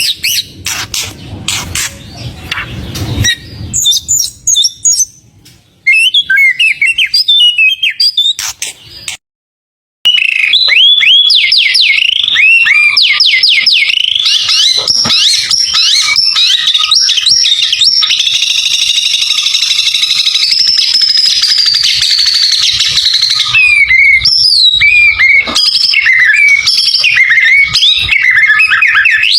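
White-rumped shama (murai batu) singing a fast, varied song of quick rising whistles and trills. The first few seconds are broken by scattered clicks, and the sound cuts out briefly about nine seconds in.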